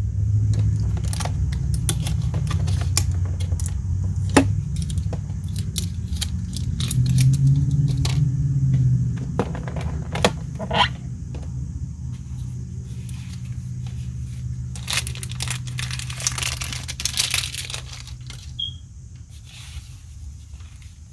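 Toy packaging and plastic parts being handled: scattered crinkling, tearing and small clicks and rattles, with a busier stretch of crinkling near the end, over a steady low hum.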